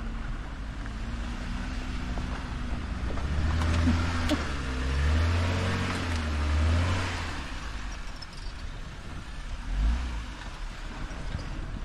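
An off-road 4x4's engine revving as it drives up a dirt hill. Its pitch rises and falls, and it is loudest from about three to seven seconds in. A short low thump comes near the end.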